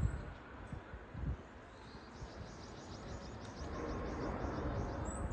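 A wild bird calling: a rapid run of about a dozen short, high notes, roughly five a second, starting about two seconds in. There are a couple of single high chirps besides, and low thumps in the first second or so.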